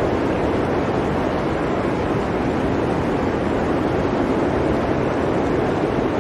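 Blizzard wind blowing steadily, an even rushing noise with no breaks.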